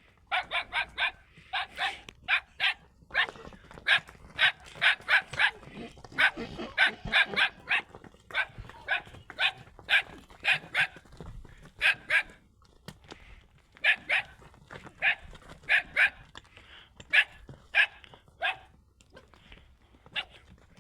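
A dog barking over and over, in quick runs of three or four short barks.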